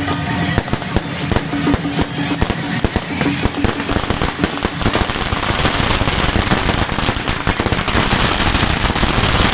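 Long strings of firecrackers going off in rapid, crackling pops, growing denser into a continuous crackle about halfway through.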